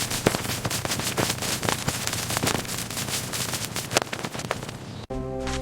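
Cleaning work: a dense, irregular run of crackles and clicks. About five seconds in it cuts off suddenly and music with a steady beat begins.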